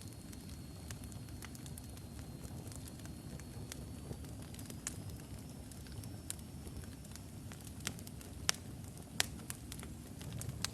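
Wood logs burning in a fireplace: a low steady rumble of flame with scattered sharp crackles and pops, two louder pops near the end. A faint thin high whistle runs underneath, rising slightly about halfway through.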